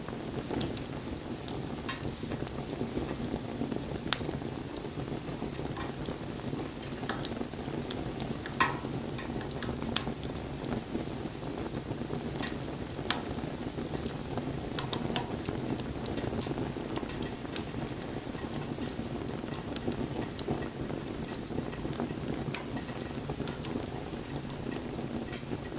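Wood bonfire burning: a steady hiss and rush of flames with scattered sharp crackles and pops from the burning wood, a few louder snaps among them.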